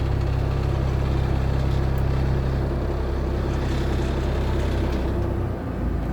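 Tour boat's engine running with a steady low rumble, its note dropping and changing about five and a half seconds in.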